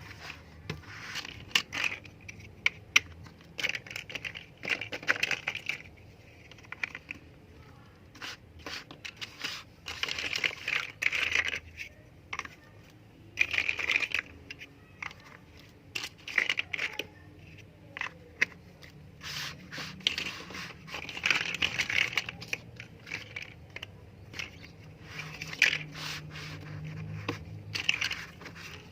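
LEGO pieces being handled: irregular sharp plastic clicks and short scraping bursts, spread throughout.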